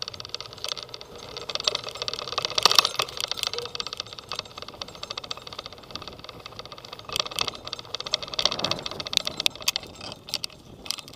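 A recumbent bicycle being ridden, heard close up: a constant dense rattling and clicking from the bike and its camera mount over road noise. It gets louder briefly about three seconds in and again around eight seconds.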